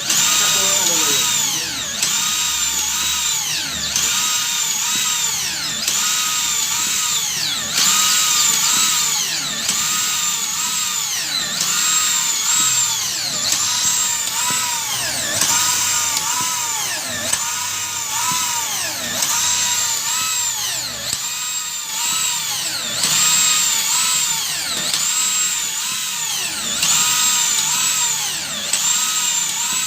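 Electric drill, a 13 mm Maktec, running continuously as it drives a PCP air-rifle hand pump through a homemade crank driver. Its whine dips and recovers in pitch about once a second as each pump stroke loads the motor.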